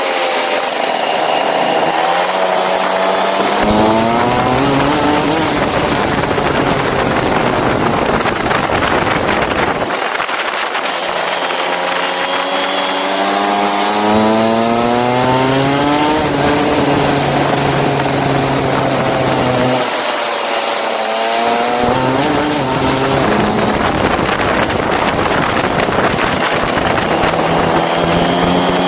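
Small go-kart engine, high-pitched and buzzy, dropping in pitch as the throttle is lifted and then climbing back up as the kart accelerates, three times, over a steady loud hiss.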